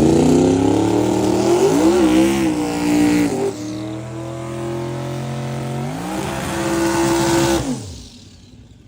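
Drag racing car engine revving hard. The pitch climbs and holds high, drops about three and a half seconds in, then climbs and holds again before falling away about eight seconds in.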